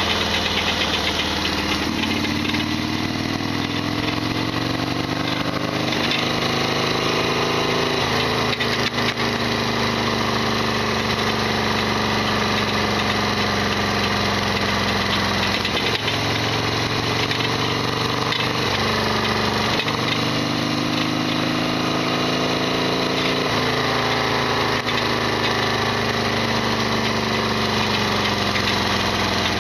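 Harley-Davidson Sportster XL1200R's air-cooled 1200 cc V-twin running under way, its engine speed rising and falling several times with throttle and gear changes. The engine carries the loud rattling racket the owner says this bike always makes.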